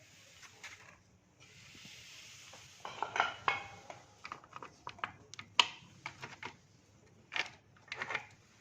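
Metal tools and parts clinking and clattering, in irregular knocks and clicks; a few strikes about three seconds in ring briefly.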